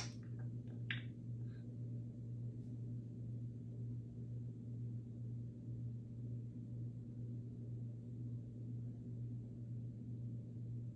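A steady low hum throughout, with one short, sharp chirp or click about a second in.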